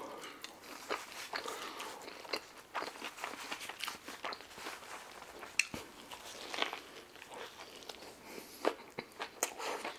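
Close-miked eating: biting into and chewing a falafel wrap, with a string of irregular crunches and mouth clicks.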